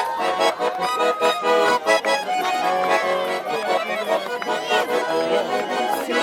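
Russian garmon (button accordion) playing a rhythmic tune on its own: the instrumental break between sung chastushka verses.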